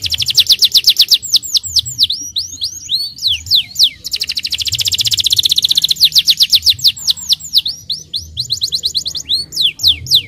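Domestic canary singing loudly in fast rolled trills and rapid runs of high sweeping notes, the tour changing every second or so.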